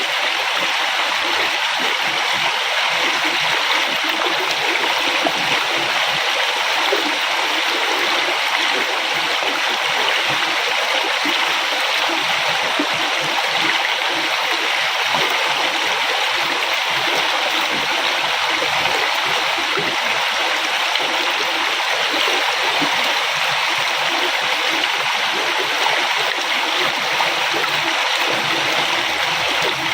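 River water flowing in a steady, even rush, with a constant churning undertone.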